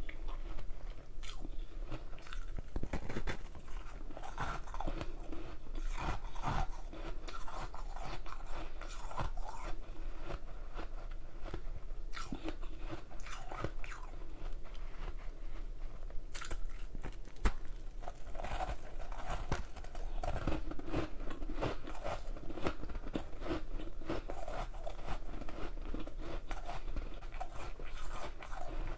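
Close-miked biting and chewing of hard ice: a steady run of crunching and cracking snaps as chunks are bitten off and crushed between the teeth.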